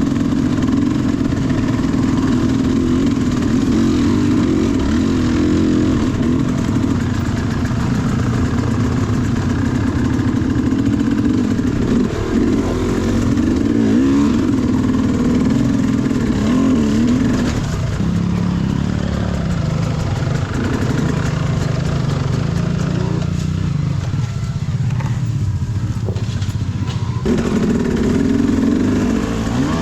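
Dirt bike engine running under throttle, its pitch rising and falling as the rider works the throttle. It settles to a lower, steadier note about two-thirds through, then picks up again near the end.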